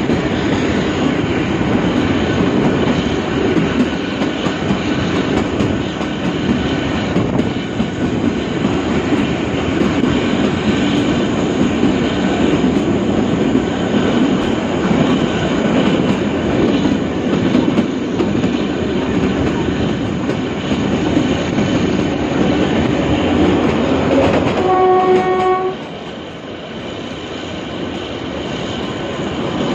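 Narrow-gauge toy train running, heard from a moving coach: a steady rumble with wheels clattering over the rails. About 25 seconds in, the diesel locomotive sounds its horn once, briefly, and the running noise dips for a moment after it.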